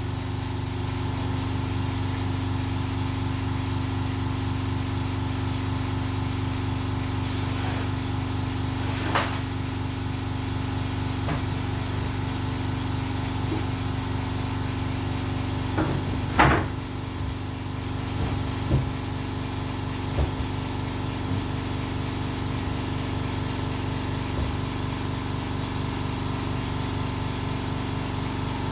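A steady machine hum runs throughout, with a few short knocks of wood being handled: one sharp knock about 9 seconds in, the loudest about 16 seconds in, and a couple of lighter ones soon after.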